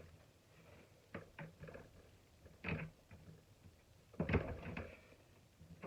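Scattered knocks and clatter of shop-vac motor parts being handled, the loudest about four seconds in.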